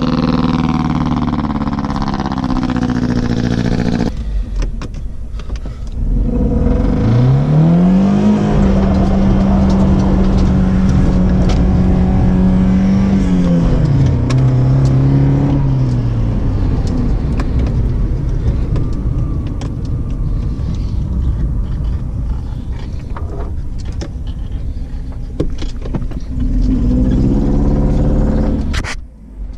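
Mercedes-Benz W202 engine running on three cylinders, a piston with missing rings after the engine was run without oil. It is revved up about seven seconds in, held there for several seconds, then let fall back to a lower, uneven running, and revved again near the end before the sound cuts off.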